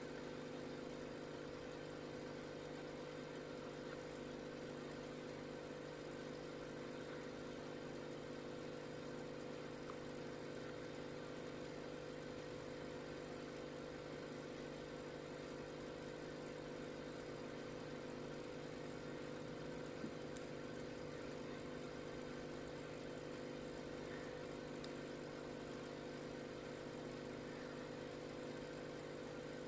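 A steady machine hum, like a small motor running without change, with several held tones and a faint hiss underneath.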